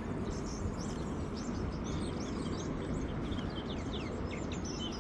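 Outdoor birdsong: many short, quick chirps and falling whistled notes from small birds, over a steady low rumble of background noise.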